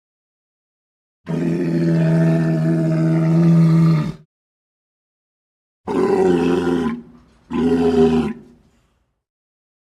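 Leopard seal calls: one long, steady, low pitched call lasting about three seconds, then two shorter calls in quick succession, with silent gaps between them.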